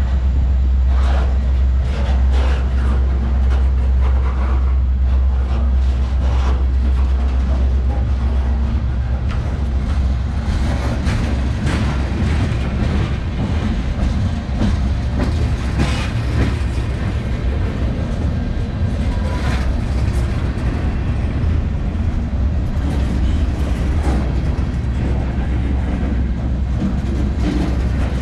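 Freight train cars, lumber flatcars then tank cars, rolling past close by: a steady low rumble of steel wheels on rail, broken by irregular clacks as wheel sets pass over rail joints.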